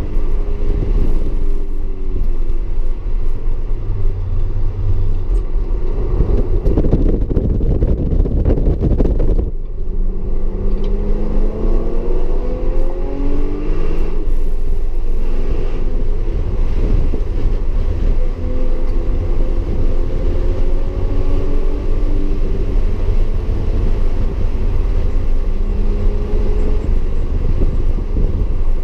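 Audi S4 engine at race pace on a wet track, its pitch climbing under acceleration and dropping back at each gear change and lift, again and again, over a heavy low rumble of tyre and road noise. About seven to nine seconds in a loud rush of noise swells and then cuts off suddenly.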